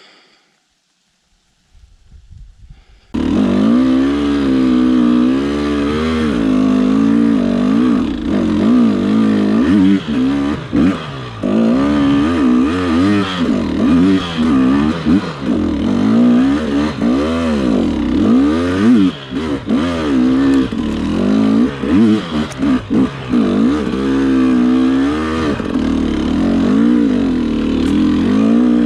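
Dirt bike engine running and revving up and down as it is ridden along a trail, coming in suddenly and loud about three seconds in after near silence.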